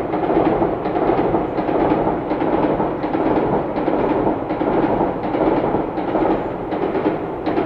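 A long freight train of tank wagons rolling over an elevated viaduct: a steady rumble with a regular run of thuds, about two or three a second, as the wheels pass over the rail joints.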